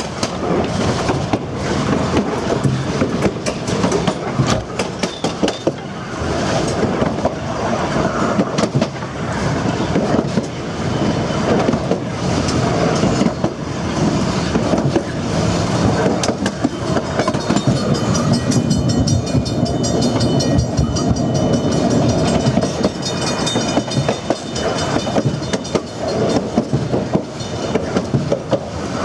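Durango & Silverton narrow-gauge passenger cars rolling along the track with a steady rumble, their steel wheels clicking and clattering over the rail joints.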